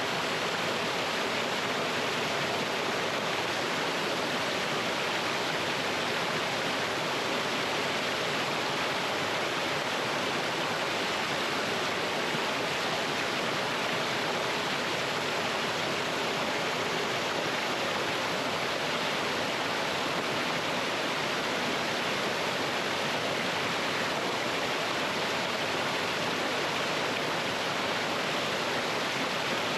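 Mountain stream rushing over rocks in a small waterfall: a steady, even splashing rush of water.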